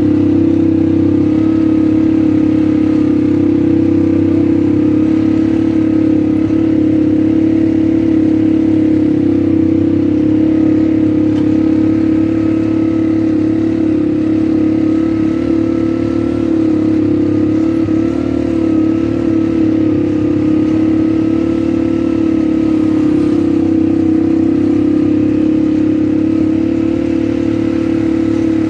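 ATV engine running at a steady speed while riding, its pitch holding nearly constant with only slight wavering.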